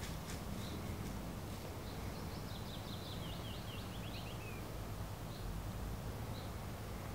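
A songbird singing: a single trill of quick notes that falls in pitch and lasts a couple of seconds, with short high single notes repeating about once a second. A low steady rumble runs underneath.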